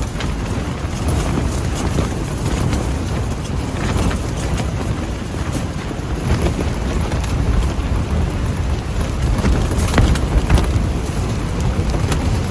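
Typhoon-force wind gusting hard, buffeting the microphone with a deep, rumbling wind noise that surges and eases, and scattered sharp taps through it.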